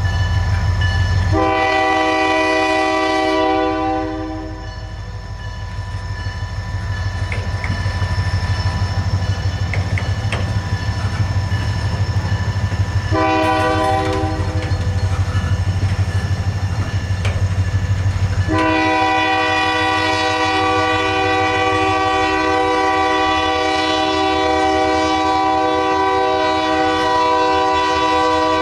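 Diesel freight locomotives passing with a deep engine rumble. The locomotive's multi-chime air horn sounds three times: a long blast about a second and a half in, a short one about halfway, and a long one held through the last third. Wheels click over rail joints in between.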